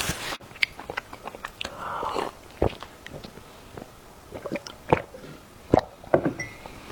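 Close-up chewing and biting of food, with irregular short wet clicks from the mouth and a few sharper crunches.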